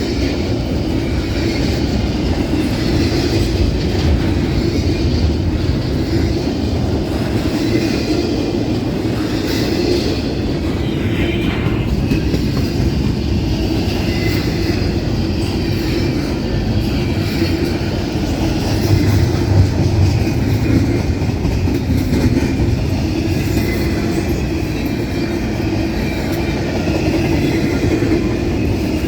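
Freight cars of a Union Pacific manifest train rolling steadily past, a continuous low rumble of wheels on the rails with faint high wheel squeal now and then.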